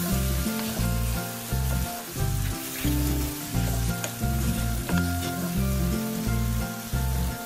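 Chicken and tomatoes sizzling in oil in a pot, sautéing over a low flame while a wooden spatula stirs them. Background music with a low, stepping bass line plays over the sizzle.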